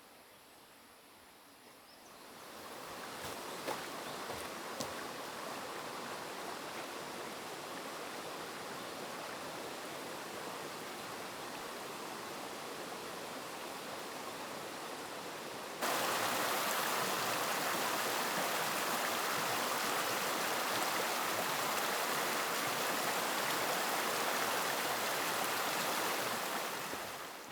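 River water rushing as a steady, even noise. It fades in a couple of seconds in, jumps suddenly louder about sixteen seconds in, and fades out near the end.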